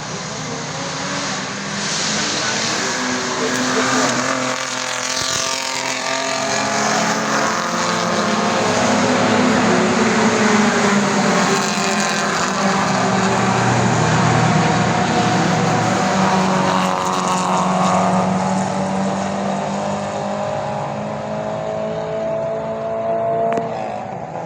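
Classic race cars' engines running hard, several at once, their pitch rising and falling with the revs. The sound builds to its loudest around the middle of the stretch and eases off toward the end.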